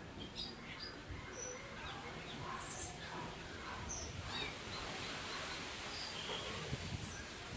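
Birds chirping: many short, high calls scattered throughout, over steady outdoor background noise.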